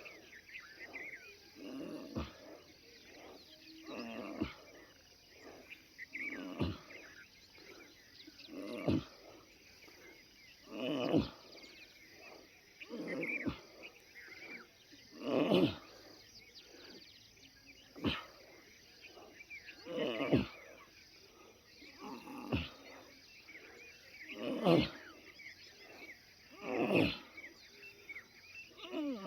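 Heavy breathing close to the phone microphone during a brisk walk, one breath about every two seconds, with a steady even rhythm.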